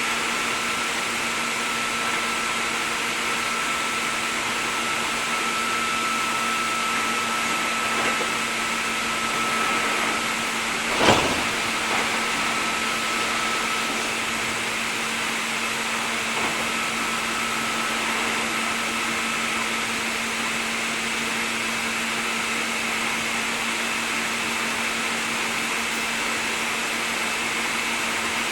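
Steady running noise of a Hankyu 3300 series electric train, a constant whir with a steady hum and no change in pitch. One sharp knock about eleven seconds in.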